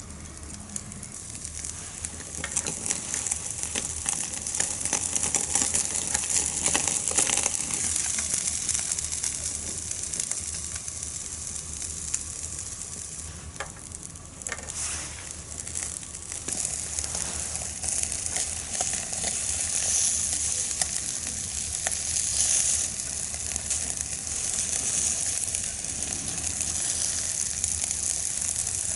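Sawara (Japanese Spanish mackerel) head sizzling as it grills over a fire, with a steady hiss and frequent small crackles as fat and juices hit the heat.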